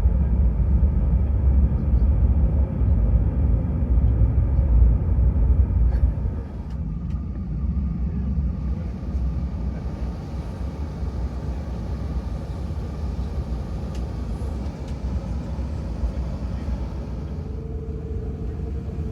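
Cabin noise inside an Airbus A380: a heavy, uneven low rumble for about the first six seconds, which then eases to a steadier drone. Under it runs a constant airflow hiss, and a short hum comes in near the end.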